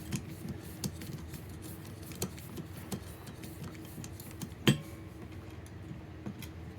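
Small metal parts of a wood stove fan being handled: scattered light clicks and taps, with one sharper metallic click that rings briefly a little under five seconds in.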